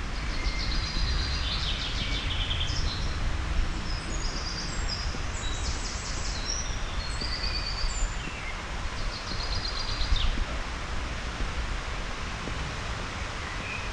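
Small songbirds chirping and trilling in short, repeated high phrases, fading out near the end, over a steady low outdoor rumble.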